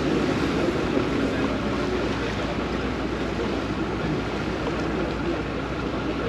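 Vaporetto water bus under way, its diesel engine running with a steady low hum over the rush of water along the hull.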